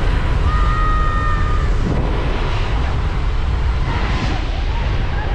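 Strong air buffeting the microphone: a loud, low rumble that comes and goes rapidly. A faint high whistling tone is held briefly, from about half a second to nearly two seconds in.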